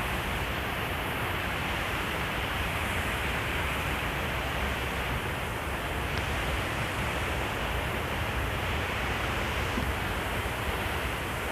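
Steady rushing of falling water from a waterfall, an even noise with a low rumble underneath.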